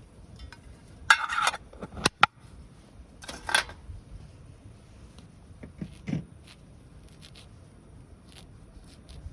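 Wood campfire with irregular sharp crackles and clicks, two short rustling, scraping bursts about a second in and about three seconds in, and a dull knock near the middle.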